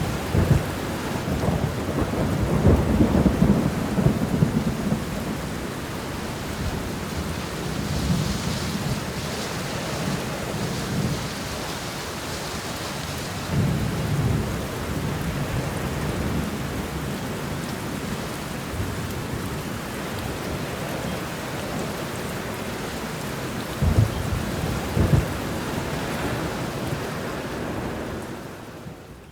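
Steady rain shower falling, with several low rumbles rising out of it: a long one over the first few seconds, another midway, and two short ones near the end. The whole sound fades out at the very end.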